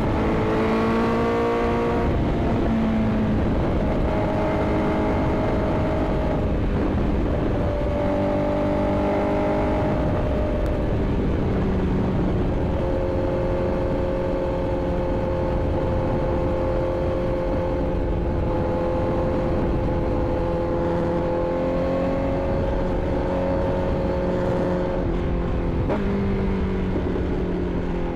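Inline-four sport bike engine running in traffic. Its pitch steps up and down several times in the first dozen seconds, holds at a steady cruise for a long stretch, then changes again near the end. A steady low rushing noise runs underneath.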